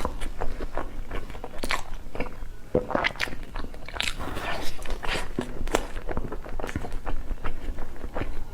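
Close-miked eating: biting into and chewing dessert, with many irregular short crunches and wet mouth clicks.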